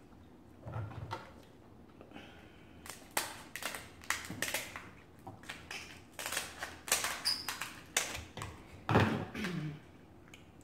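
Lobster shell being cracked and broken apart by hand: a run of sharp cracks, snaps and clicks, busiest through the middle. A brief low vocal hum comes near the end.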